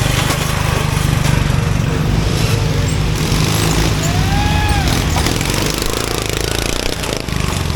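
Riding lawn mower engine running steadily, with a rough, noisy clatter over its low hum. A brief pitched call rises and falls about four seconds in.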